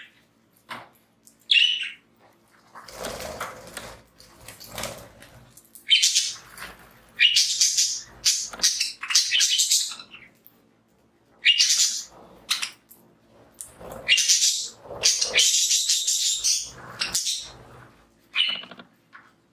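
A flock of budgies chirping and chattering in repeated short bursts, with softer rustling noises between them in the first few seconds.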